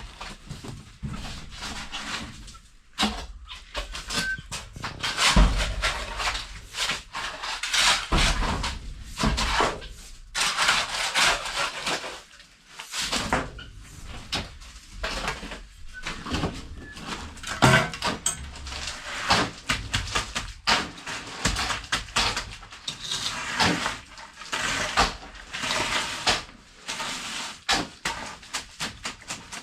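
Hand tools scraping and knocking in cement, in irregular strokes that come one after another, as cement is mixed or plastered.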